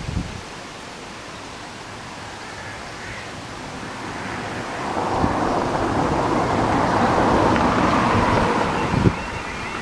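A road vehicle passing on the road over the crossing: tyre and engine noise swells over a few seconds, peaks and fades. Wind bumps on the microphone are heard now and then.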